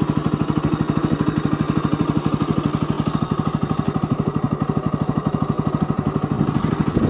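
Motorcycle engine running steadily, a rapid, even putter that holds the same speed throughout.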